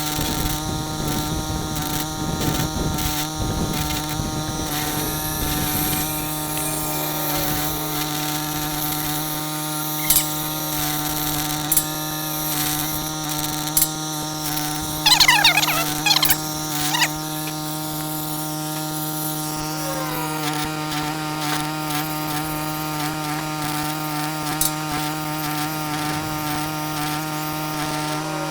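A machine running steadily, with a constant drone and hum. Its sound is rougher in the first few seconds, there are a few sharp clicks, and a brief cluster of high gliding whines comes about halfway through.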